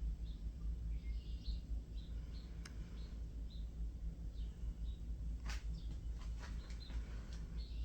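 Small birds chirping in short, repeated high calls over a steady low rumble, with a few sharp clicks about two-thirds of the way in.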